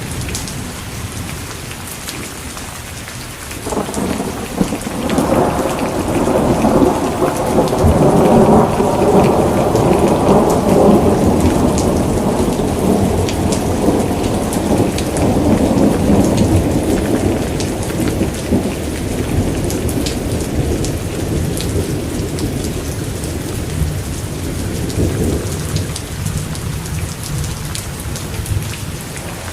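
Steady rain falling, with a long roll of thunder that builds about four seconds in, rumbles loudly for several seconds and slowly dies away. Another roll starts right at the end.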